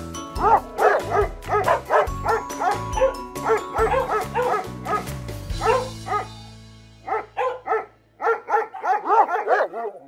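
A dog barking in quick runs of short barks, two or three a second, over background music with a low beat. The music fades out about two-thirds of the way in and the barking carries on alone.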